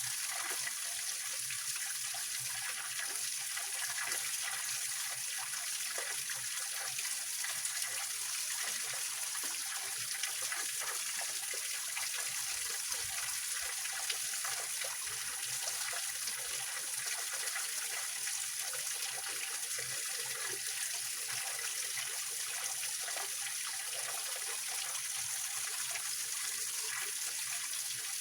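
Small waterfall of a mountain spring stream splashing and trickling over rocks, a steady rushing sound with most of its energy in the high, hissing range.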